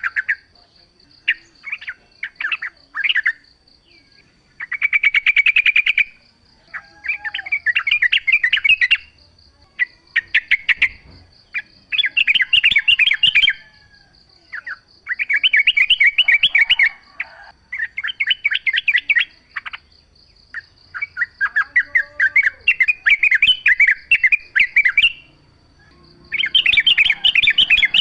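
Yellow-vented bulbuls (trucukan) singing in repeated bursts of fast chattering phrases, each a second or two long with short gaps between them. A steady high-pitched buzz runs underneath.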